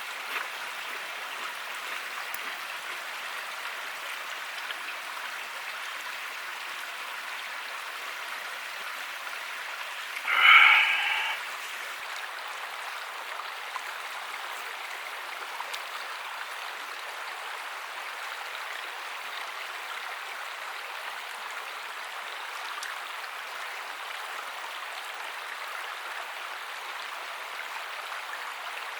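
Steady rushing of a stream. About ten seconds in, one short, loud pitched call cuts in over it for about a second.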